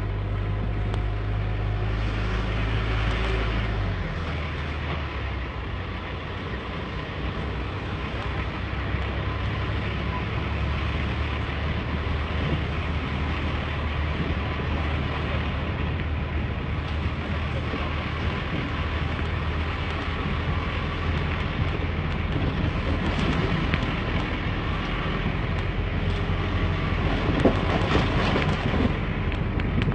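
Scania R580 heavy haul truck's V8 diesel running with steady road noise. Its low engine drone drops about four seconds in, and there are a few sharp knocks near the end.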